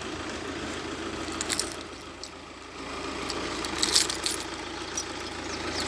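A rattly old diesel engine idling in the background, with sharp metallic clinks and jingles about a second and a half in and again in a cluster around four seconds.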